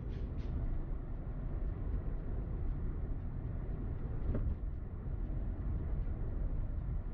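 Car driving: a steady low rumble of engine and tyre noise, with one brief knock about four seconds in.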